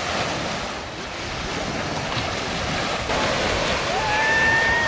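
Ocean surf washing on the beach, with wind buffeting the microphone. About four seconds in, a drawn-out high tone rises and holds for about a second.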